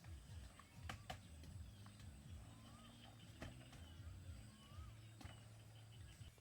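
Near silence with a few faint, sharp knocks and a couple of faint bird chirps over a low rumble.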